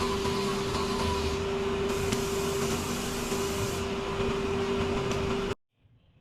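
A motor-driven tool running steadily with a constant whine and a loud hiss, cutting off abruptly near the end.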